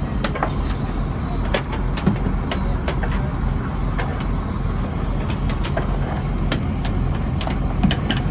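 Fishing trawler's engine running steadily, with scattered sharp clicks and knocks over it.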